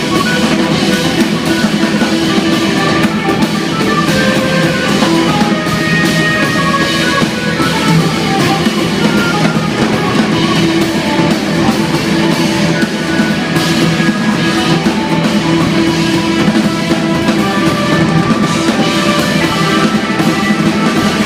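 Live instrumental jazz-rock trio playing: busy drum kit with bass drum, driving electric bass and keyboards, loud and continuous.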